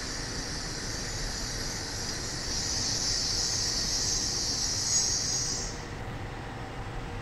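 Train running on the line, a steady low rumble under a high hiss that swells in the middle and cuts off suddenly near the end.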